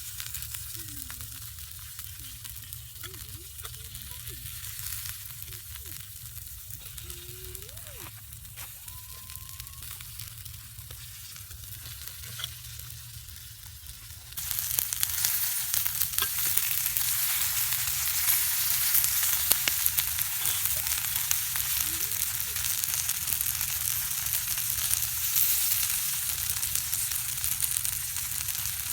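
Food frying in hot oil, a steady sizzle that suddenly becomes much louder and fuller about halfway through and stays that way.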